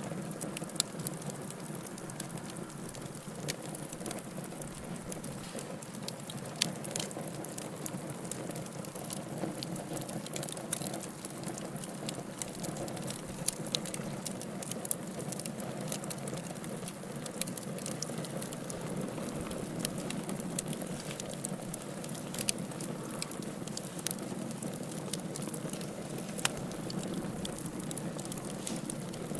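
Wood fire burning in a fireplace, crackling steadily over a low rushing hum of flame, with sharp pops every second or so.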